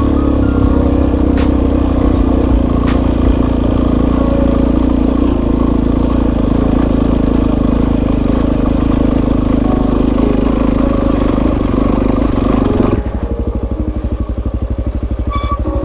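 Suzuki DR-Z400S single-cylinder dual sport motorcycle engine running steadily under way. About thirteen seconds in the throttle closes and the note drops to a quieter, lower, evenly pulsing beat.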